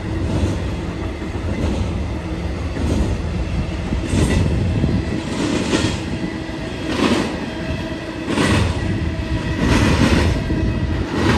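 BNSF intermodal double-stack freight train rolling on the track: a steady low rumble with a rushing swell about every second and a half as the cars pass.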